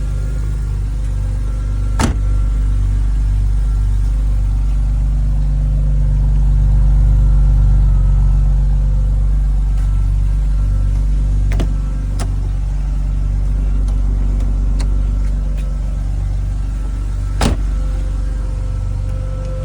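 1999 BMW Z3's engine idling steadily about a minute after a cold start, its note swelling slightly for a couple of seconds midway. Two sharp clicks, about two seconds in and near the end, stand out over the idle.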